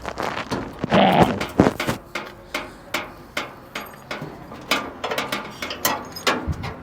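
Hand tools working on metal: irregular clicks, knocks and clanks as parts are pulled off, with a louder clatter about a second in.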